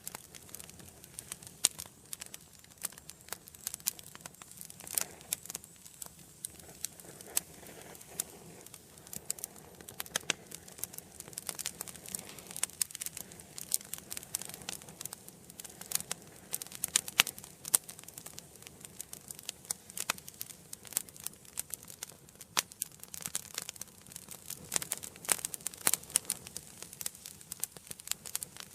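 Wood fire burning in an indoor fireplace: a steady crackling of many sharp, irregular pops and snaps over a soft hiss of the flames.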